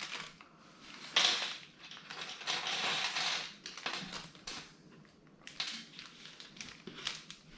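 Plastic LEGO parts bags crinkling and rustling as they are handled, with light clicks of small plastic pieces.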